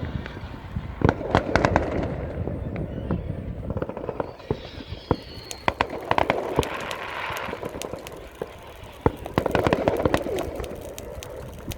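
Fireworks going off: a string of sharp bangs, with bursts of dense crackling about a second in, around the middle and again near the end.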